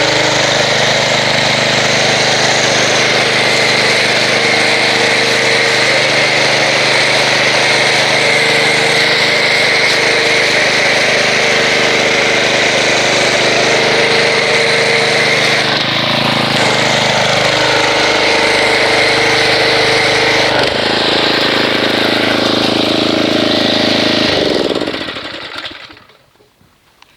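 Pressure washer running steadily while spraying soap through a foam cannon, with a brief dip in pitch about two-thirds of the way through. Near the end the motor winds down in pitch and stops.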